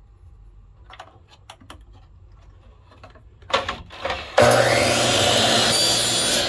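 A few light clicks, then a power saw starts about four and a half seconds in and runs loud and steady, cutting a 3/8 pen tube to length; its motor begins to wind down at the very end.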